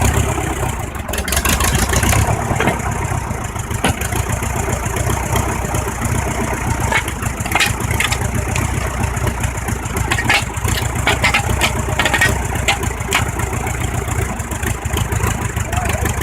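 Tractor engine running steadily, with a scatter of short sharp clicks and cracks around the middle.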